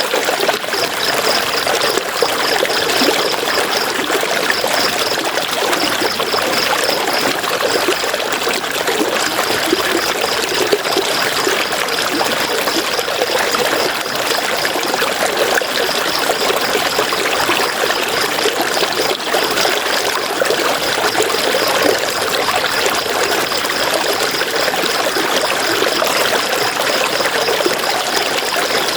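River water flowing steadily, a continuous rush of water. Over it runs a high, rapidly pulsing chirp that pauses briefly about eight seconds in.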